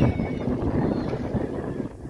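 Wind buffeting the microphone: an uneven, low rumbling noise that eases off near the end.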